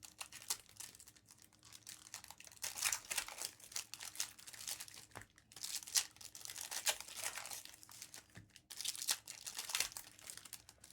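Topps Chrome trading-card pack wrappers crinkling and tearing as packs are ripped open and handled, in bursts of rustling with short pauses between.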